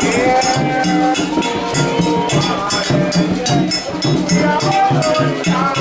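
Candomblé ritual music: drums and hand percussion keep a fast, steady rhythm under voices singing a chant.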